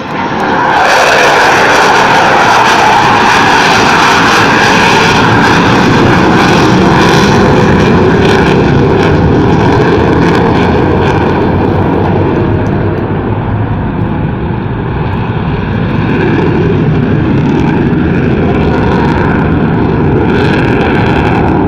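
Avro Vulcan bomber's four Rolls-Royce Olympus turbojets, a loud sustained jet roar as the aircraft passes. It swells in the first second, eases a little past the middle, then rises again.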